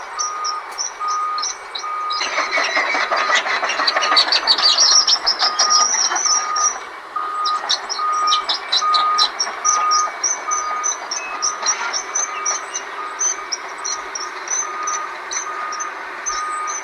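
A backup alarm beeping steadily, about two beeps a second, over heavy equipment working rock. Between about two and seven seconds in, the loudest part is a dense clatter and scrape of loose rock being pushed around.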